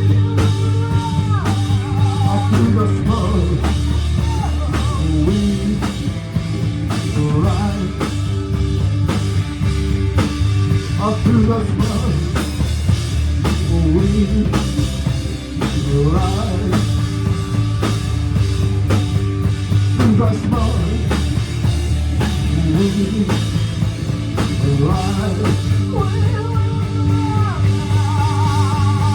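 Rock music: a singing voice over a drum kit with a steady beat, bass and guitar.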